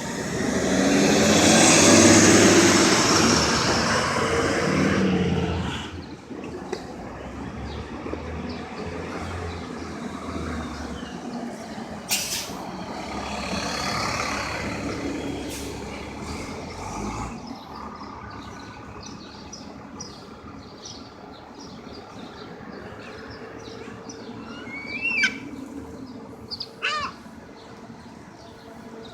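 City bus with a loud air-brake hiss that swells and fades over the first few seconds, then quieter street traffic. Two short chirps near the end.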